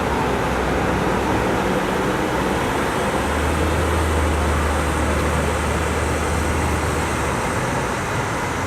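Heavy rain pouring steadily in a severe thunderstorm, with a low rumble from about three seconds in until about seven seconds in.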